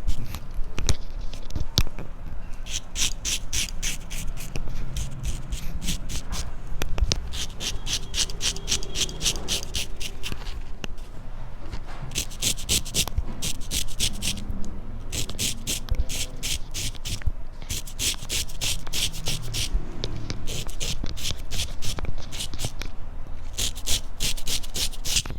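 Razor scraping hair off a scalp during a head shave: runs of quick, short scratchy strokes, several a second, broken by brief pauses.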